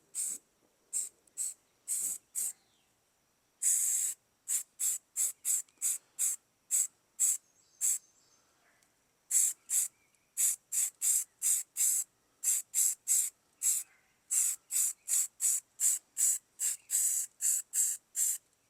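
Aerosol spray can of filler primer spraying in many short hissing bursts, with one longer burst about four seconds in and a quick run of bursts, about two a second, through the second half.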